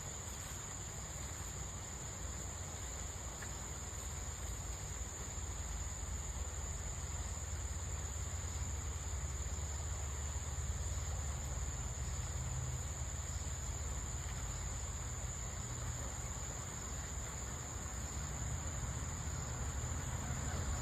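A steady high-pitched insect chorus, one unbroken trill, over a constant low rumble.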